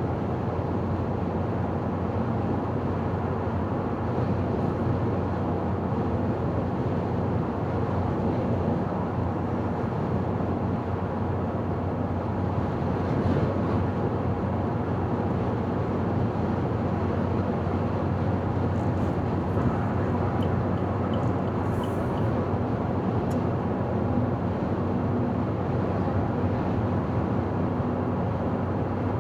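Steady road and engine noise of a car driving at speed on a highway, with a few faint ticks about two-thirds of the way through.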